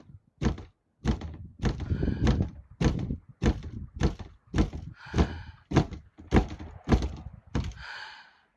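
A steady series of dull thuds, about two or three a second.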